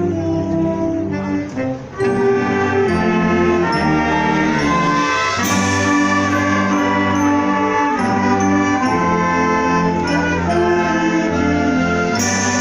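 Symphonic wind band playing live, the brass holding full sustained chords, with two bright crashes: one about five and a half seconds in and one near the end.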